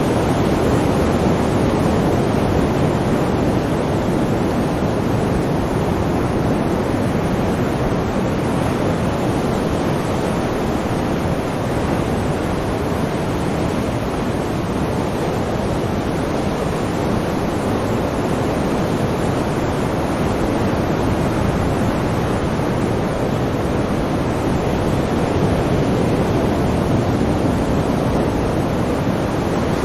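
Continuous rush of sea waves and surf, an even wash of noise that eases slightly midway and swells again near the end.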